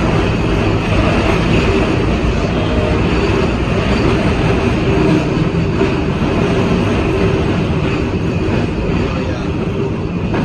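NORTA 900 Series streetcar running on its rails, heard from inside the car: a steady rumble and hum.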